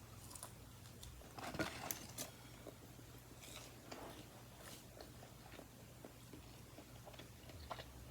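A person chewing and biting food close to the microphone, faint, with a cluster of short crunchy clicks about one and a half to two seconds in and a few more scattered later.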